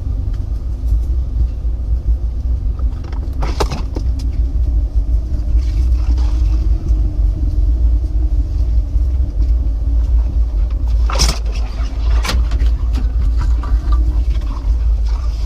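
Jeep engine running at low revs with a steady low rumble, broken by a few sharp knocks about 4, 11 and 12 seconds in.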